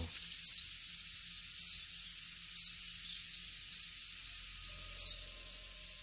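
A bird chirping: one short high note about once a second, five times, over a steady faint hiss. The recording has been through noise reduction that strips out the low drone of data-center cooling fans and leaves the birdsong.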